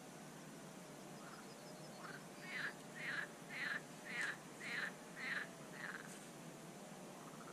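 A bird calling: a series of about seven short, harsh calls, about two a second, starting about two seconds in and stopping about six seconds in, over a faint steady hiss.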